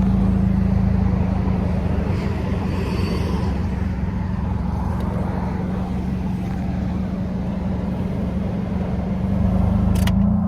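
Car running and driving, heard from inside the cabin: a steady engine hum under road and tyre noise, with a sharp click about ten seconds in.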